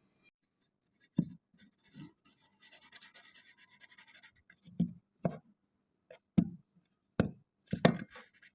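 Kinetic sand being cut and scraped with a tool: a gritty, crunchy scrape lasting about two seconds, then a series of sharp taps and thuds as the tool cuts down through the sand.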